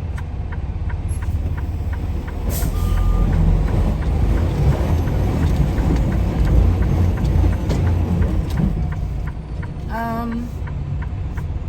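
Semi-truck diesel engine rumbling under load as the truck struggles up a steep gravel driveway, getting louder through the middle, with a steady fast ticking of about three to four ticks a second throughout.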